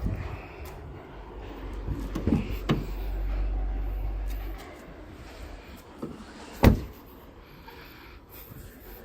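Clicks and clunks of a car's doors or latches being worked, with the loudest single clunk about two-thirds of the way through, over a low rumble in the first half.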